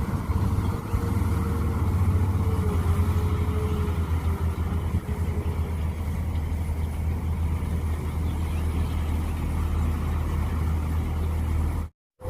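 Mini excavator's diesel engine running steadily under work, with a faint wavering whine during the first half. The sound cuts out completely for a moment near the end.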